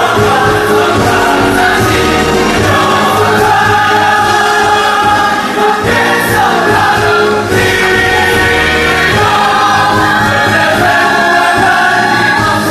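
Stage musical cast and chorus singing together over orchestral accompaniment, a full-voiced ensemble number.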